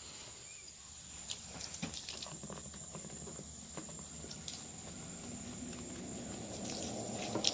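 Foaming three-part truck wash concentrate fizzing and crackling in a 5-gallon bucket as the sodium hydroxide reacts, with scattered small pops and clicks. The crackle grows louder toward the end.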